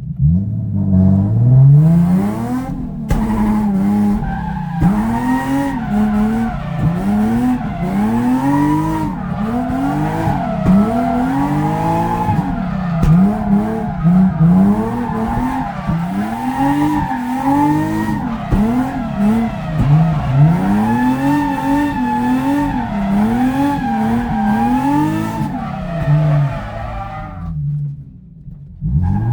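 Drift car's engine revving up and down over and over, rising and falling about once a second, with tyres skidding through the drift. The engine note falls away near the end.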